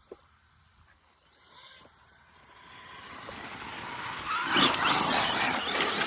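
Large-scale Arma Mojave EXB RC truck driving over rough dirt, its tyres churning loose ground along with the electric motor's whine. It grows louder from about two seconds in and is loudest near the end.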